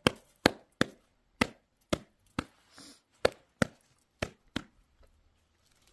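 A series of about a dozen sharp knocks at irregular intervals, each short, with quiet gaps between.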